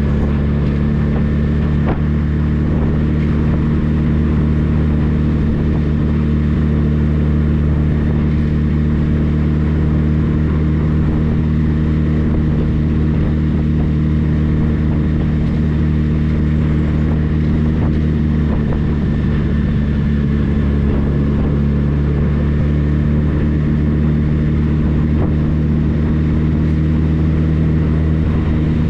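Motorcycle engine running at a steady cruising speed, a constant even drone that holds the same pitch throughout.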